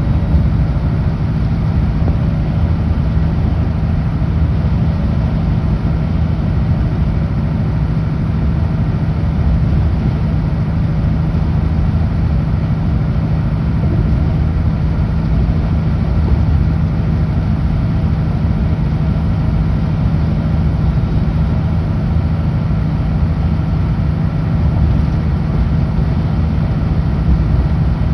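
Kenworth W900L semi truck's diesel engine running steadily at highway speed: a constant low drone with road noise underneath, unchanging throughout.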